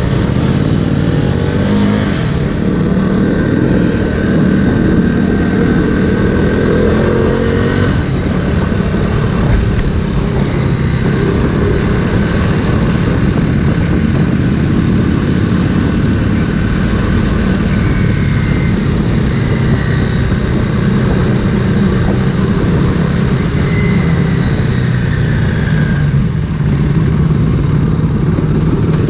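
Motorcycle engine running under way, with wind rushing over the microphone; the engine note climbs over the first several seconds, then holds steady.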